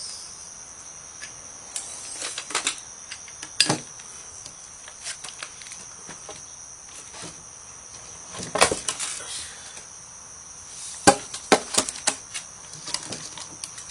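Scattered knocks and clatter from working a house jack and wooden shims under a floor as the jack's pressure is let off and the shims take the load. A steady high whine runs underneath.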